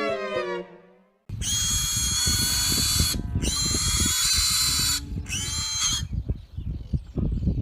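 A small high-speed motor whirring loudly with a steady high whine, running in three stretches separated by two brief breaks, then cutting off, with low knocking beneath it.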